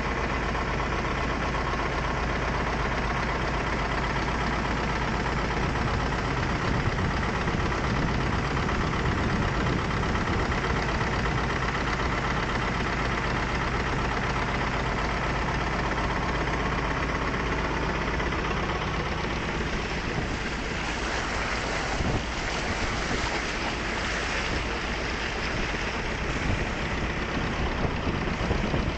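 A motorboat's engine running steadily under way, with a constant hiss over it that grows stronger in the last third.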